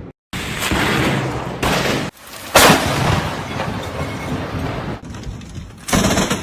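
Thunder from close lightning strikes: a dense, loud rumble broken by a sudden sharp thunderclap about two and a half seconds in, with abrupt cuts where the sound drops and restarts.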